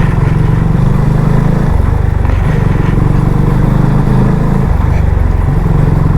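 Motorcycle engine running at low speed, with rapid, even firing pulses. Its low note shifts about two seconds in and again near five seconds, as the throttle changes.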